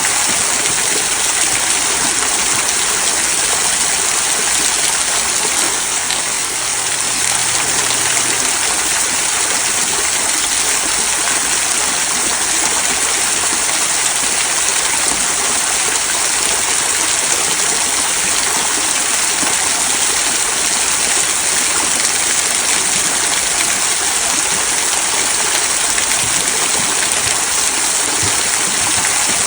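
Small rock waterfall trickling over mossy stones into a stream, a steady, unbroken splashing and babbling hiss of running water.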